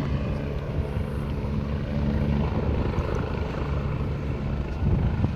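Light aircraft's propeller engine running with a steady hum, from a plane arriving and taxiing.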